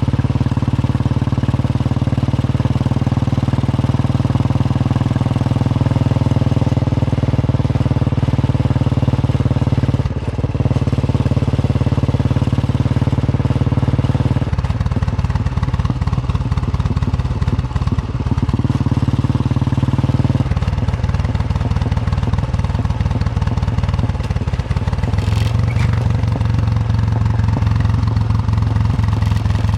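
Royal Enfield Bullet 350's single-cylinder engine thumping along under way. It runs steadily at first with a brief dip about a third of the way in. Its note drops about halfway through, where the separate beats of the single cylinder come through, and it picks up slightly near the end.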